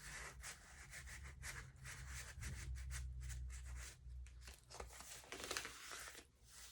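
Faint rustling and rubbing of stiff paper pages in a handmade journal made of glued magazine pages, as they are handled and turned, with a low rumble underneath for the first few seconds.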